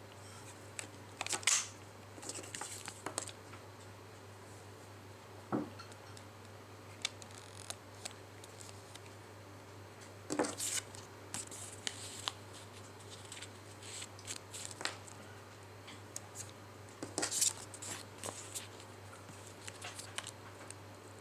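Scattered plastic clicks and rustles from handling a toy, the loudest clusters about a second and a half in, about ten seconds in and near the end, over a steady low hum.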